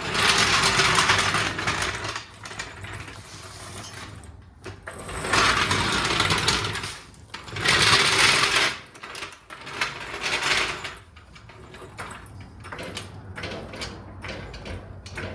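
Floor jack being rolled into place and worked to lift a riding lawn mower: metallic rattling and clicking in four spells of one to two seconds, then lighter scattered clicks.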